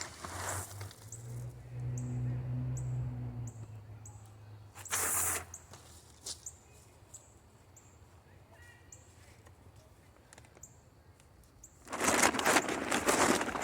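Small songbird chirping over and over in short, high notes that slide downward, about one or two a second. A low hum sounds in the first few seconds, and a loud dry rustling starts near the end.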